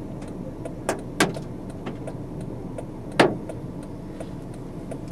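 Strong wind buffeting the microphone with a steady low rumble. Three sharp knocks or clicks, two close together about a second in and a louder one about three seconds in, over a faint regular ticking of about three a second.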